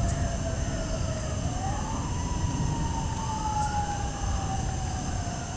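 Distant emergency-vehicle sirens wailing, several at once: one slowly dips, climbs about two seconds in, then falls slowly again, while a fainter second siren rises and falls above it.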